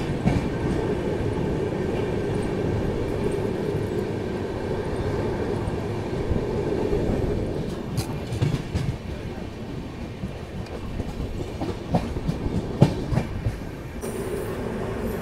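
Golden Temple Express passenger train running along the track: a steady rumble with the clickety-clack of wheels over the rails. It gets a little quieter about halfway through, and a few sharp knocks come in the second half.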